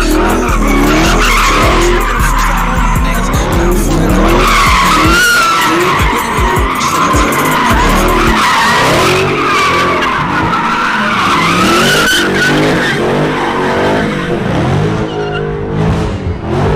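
Tires squealing in a sustained burnout or skid, wavering in pitch, over a car engine revving up and down. The squeal dies away near the end, leaving the engine.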